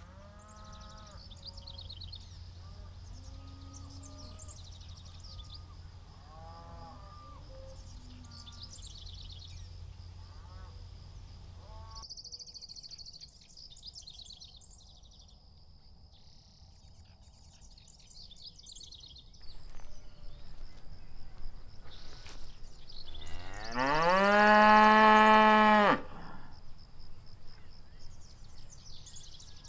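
Cattle mooing: one long, loud moo that rises in pitch and then holds, about two-thirds of the way in, after shorter, quieter calls in the first part. High chirping sounds in the background, and a low steady hum in the first part stops suddenly about twelve seconds in.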